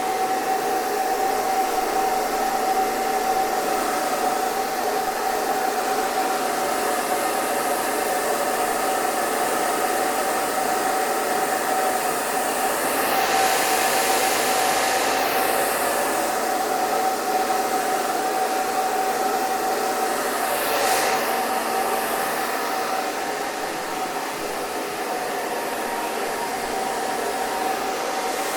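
Electric hair dryer running steadily: an even rush of air with a steady motor whine. The high hiss briefly swells and shifts a couple of times.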